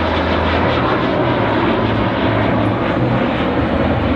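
Canadair CT-133 Silver Star jet trainer in flight: its Rolls-Royce Nene turbojet gives a loud, steady rush with a low hum underneath.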